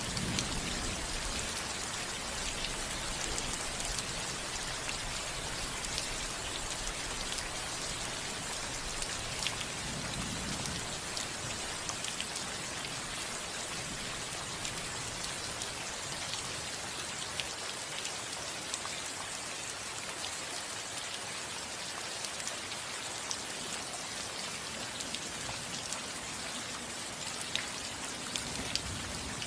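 Steady rain falling on a house roof, a continuous patter with individual drops ticking sharply here and there. A soft low rumble comes near the start and again about ten seconds in.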